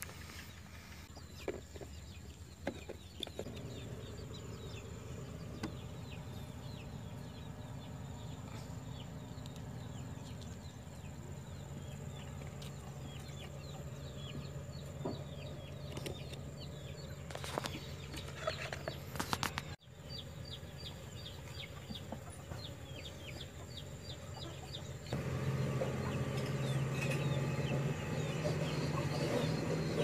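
Birds chirping in many quick, short, falling notes over a steady low hum, with a few soft knocks. About 25 seconds in, the hum and the chirping get louder.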